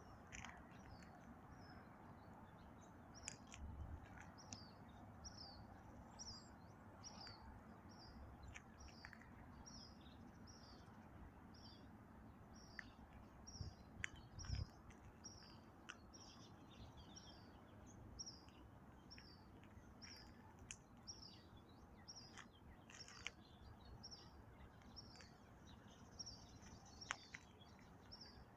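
Faint outdoor birdsong: one bird repeats a short high chirp evenly, about one and a half times a second, with a few other birds calling now and then. A few soft low thumps stand out, the loudest about halfway through.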